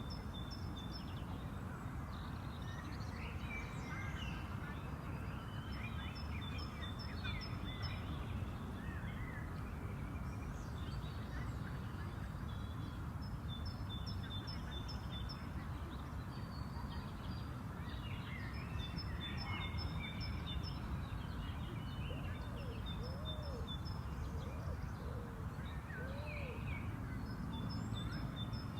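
Spring park ambience: several songbirds singing and calling over a steady low rumble. One bird repeats a quick run of short high pips every few seconds.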